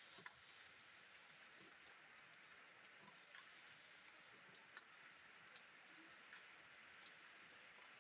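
Faint, steady hiss of rain falling, with scattered sharper ticks of single drops landing on a hard surface.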